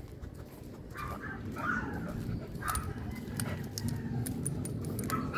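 A dog whimpering several times in short, thin cries, over a low steady rumble.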